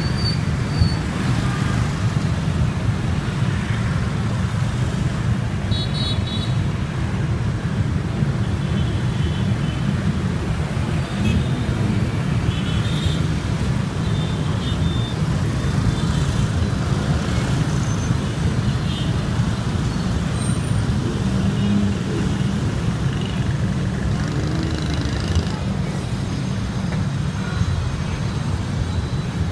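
Dense motorbike and scooter traffic streaming past in a steady, loud engine drone, with short horn beeps here and there.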